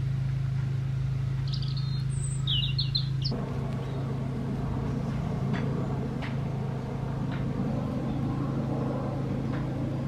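A bird chirping a few short times, about one and a half to three seconds in, over a steady low hum of outdoor background noise.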